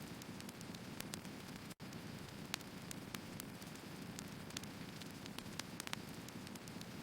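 Firewood logs burning: a steady hiss and low rumble of flame, with frequent sharp crackles and pops. The sound cuts out completely for an instant about two seconds in.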